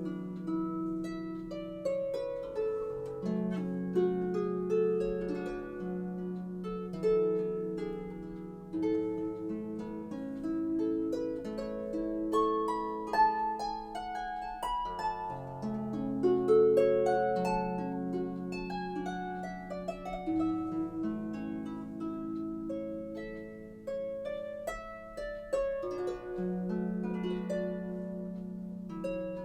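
Background harp music: solo plucked harp notes and chords ringing and decaying in a gentle, flowing line.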